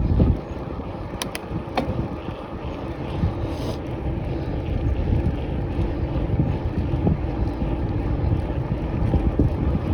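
Wind buffeting the microphone during a bicycle ride: a steady low rumble, with a few sharp clicks a little over a second in.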